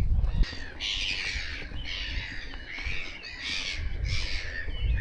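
A flock of black-headed gulls calling, many harsh overlapping calls one after another. A low rumble, like wind or handling on the microphone, sits under the calls at the start and again near the end.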